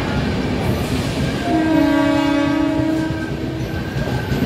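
Express train coaches rolling past at speed, a steady rumble with some wheel clatter. About a second and a half in, a train horn sounds a steady chord of several pitches for about two seconds.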